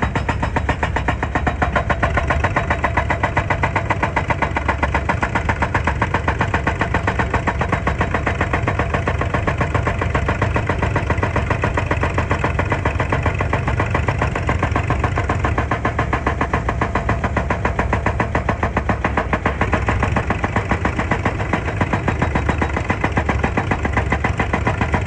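Excavator's diesel engine running steadily with an even, rapid pulse.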